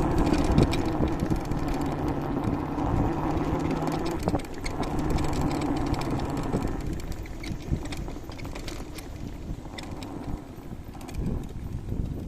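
Jingpin electric scooter being ridden: rumble and wind noise of the ride, with a low steady hum for a few seconds in the first half. It gets quieter after about seven seconds.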